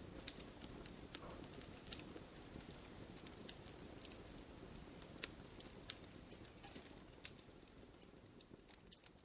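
Campfire crackling: irregular sharp pops and snaps over a low steady rush of burning, the whole growing gradually fainter toward the end.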